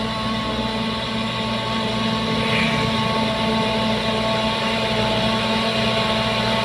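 Bulldozer's diesel engine running steadily under load, a constant low rumble with a held whine above it.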